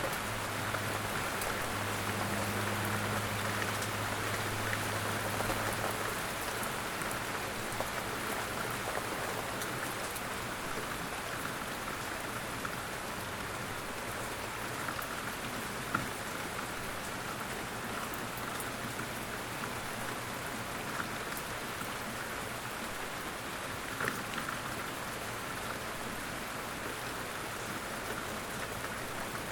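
Light rain falling in woodland, a steady even patter with a couple of sharper drips, one about halfway through and one later on. A faint low hum sits under the rain for the first few seconds, then fades out.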